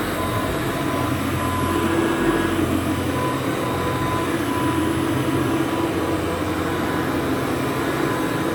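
Rebuilt Kirby 517 upright vacuum cleaner running steadily while vacuuming, a constant motor rush with a faint steady high tone on top.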